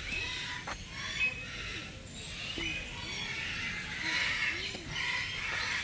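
Many birds chirping and squawking together in an aviary, a dense chatter of short calls.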